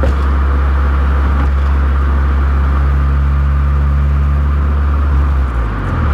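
Honda CR-Z Mugen RZ's 1.5-litre four-cylinder engine running at a steady cruise, a loud low drone with road noise, heard from inside the cabin. Near the end the engine note dips and changes pitch as the manual gearbox is shifted.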